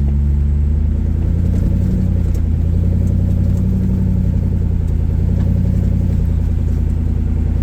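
Off-road rock crawler's engine running steadily under light throttle as the vehicle creeps forward on the trail.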